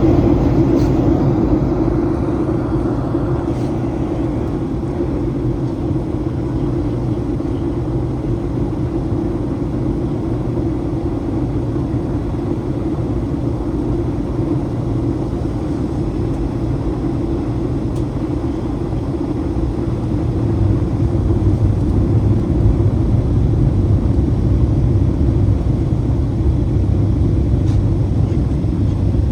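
Steady cabin noise inside a Boeing 737-800 airliner in flight: the CFM56-7B engines and airflow making a constant roar with a droning hum. The low rumble grows louder about two-thirds of the way through.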